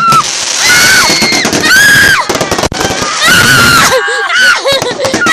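Multi-shot firework cake going off in loud volleys of crackle and bangs, with held whistling shrieks rising and falling over it. Excited screams and cheers are mixed in.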